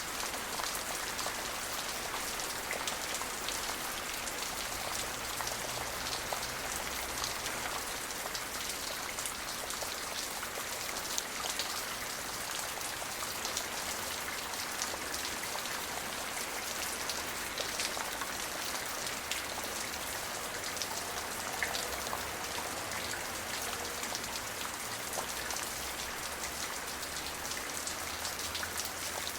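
Steady rain falling, with individual drops pattering on a surface over a constant hiss.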